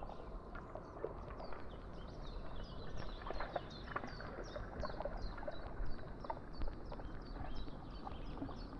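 A small songbird singing a fast run of short, high, falling notes, about three to four a second, over a low steady outdoor rush with scattered soft ticks.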